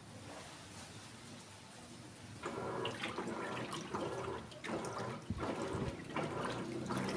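Electrolux Essential Care 14 kg top-loading washing machine agitating its load: about two and a half seconds in, water and clothes begin sloshing in repeated surges, about two a second, as the agitator swings back and forth in normal agitation without turbo.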